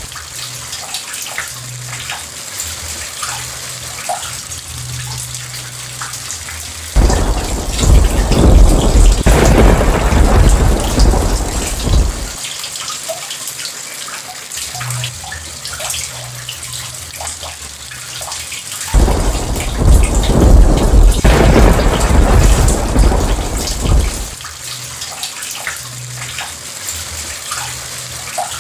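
Steady rain with close raindrops ticking, broken by two long rolls of thunder, each starting suddenly and lasting about five seconds, about seven seconds in and again near twenty seconds in.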